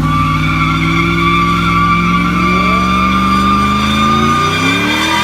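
A car's tires squealing steadily as they spin, with the engine held at high revs and slowly climbing, then easing off near the end.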